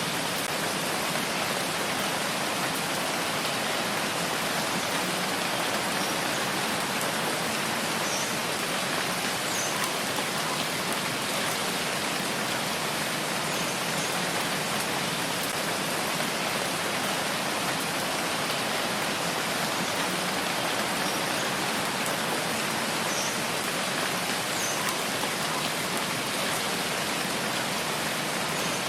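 Steady rainfall, an even hiss of rain on surfaces with no change in strength.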